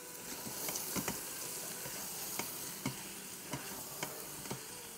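Soya chunks, spice powders and fried onions sizzling in the inner pot of an electric pressure cooker on sauté mode while being stirred, with repeated knocks and scrapes of the spoon against the pot. This is the dry frying (bhuna) stage before water goes in.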